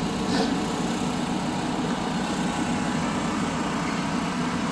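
Car engine running steadily, an even low drone that neither rises nor falls.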